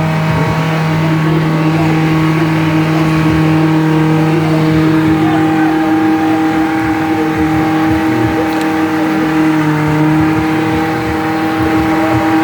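Car engine held at high, steady revs during a tyre burnout, with a hiss of tyre noise under it. Near the end the revs dip slightly.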